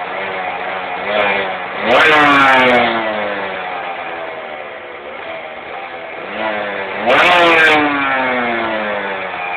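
Aprilia RS 125's single-cylinder two-stroke engine revved with sharp throttle blips, about two seconds in and again about seven seconds in, each just after a smaller blip. After each blip the pitch falls back toward idle.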